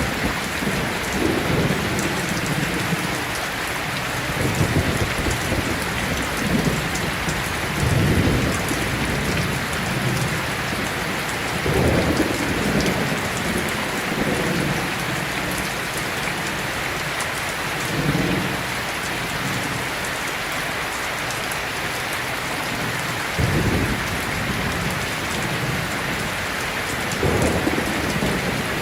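Heavy rain falling steadily, with low thunder rumbles swelling up every few seconds.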